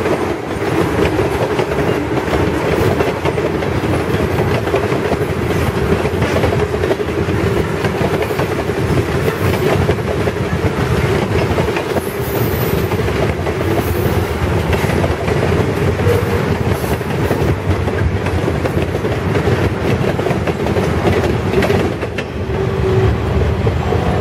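Freight cars of a long mixed freight train rolling past: a loud, steady rumble of steel wheels on rail with a continuous clickety-clack over the rail joints.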